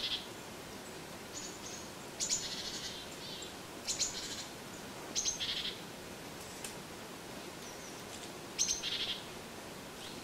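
A small songbird calling again and again: short high phrases of a few sharp notes running into a quick buzzy trill, about five of them spaced a second or two apart.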